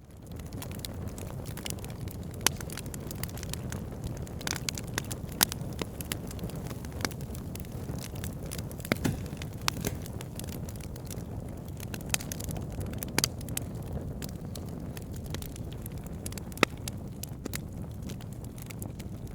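Wood fire burning: a steady low rumble with frequent sharp crackles and pops from the logs, and a few louder snaps scattered through. It fades in from silence at the very start.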